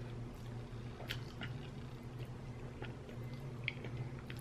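Faint chewing of a mouthful of creamy fettuccine in cheese sauce, with a few short clicks scattered through it.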